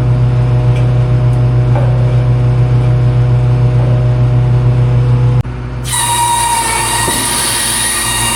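Farm machinery engine running steadily with a deep hum. About five seconds in it breaks off abruptly, and a different machine sound with a high whine over the engine takes over.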